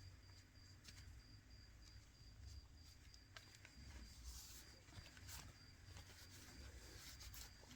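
Near silence with faint, scattered small clicks and scrapes: excess glue being cleaned off the edges of a reglued smartphone screen.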